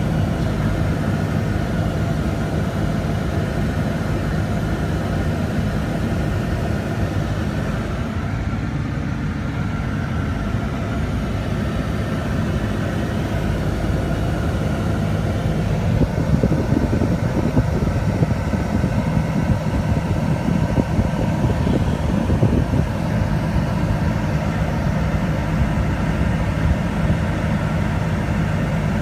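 Steady vehicle running noise: a continuous low engine hum with road rumble, a little rougher in the second half.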